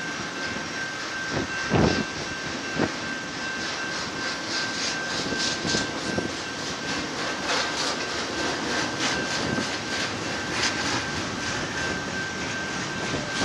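Union Pacific double-stack intermodal freight cars rolling slowly past: a steady rumble of steel wheels on rail with a thin steady high squeal, two louder knocks a couple of seconds in, and a run of quick clicks and rattles.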